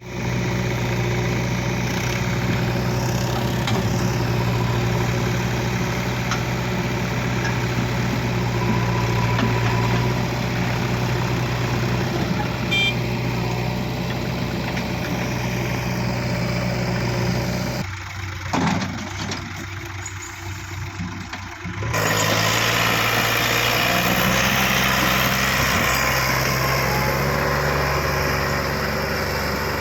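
Diesel engine of heavy farm machinery running steadily at an even pitch. About 18 seconds in, the sound drops and thins for a few seconds, then the engine comes back louder and brighter.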